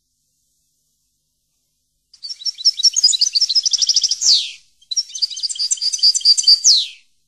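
A songbird chirping and trilling in two quick, high phrases, each ending in a fast falling whistle, after about two seconds of silence.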